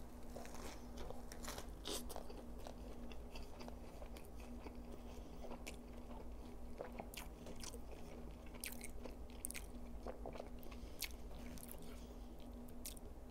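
Close-miked mouth sounds of a man biting into and chewing a double quarter pounder dressed with lettuce, tomato and Mac sauce, with many small crisp clicks and crunches scattered throughout.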